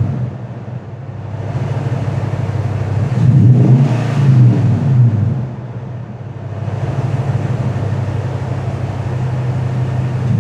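2010 Nissan Titan's 5.6-litre V8 idling through its exhaust, blipped once about three seconds in so the note rises and falls over roughly two seconds before settling back to idle.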